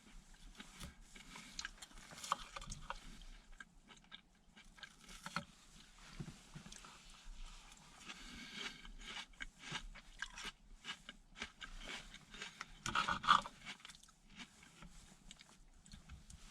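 A person biting and chewing lamb chops, with irregular crunches, clicks and small scrapes. About three-quarters of the way through comes a louder burst.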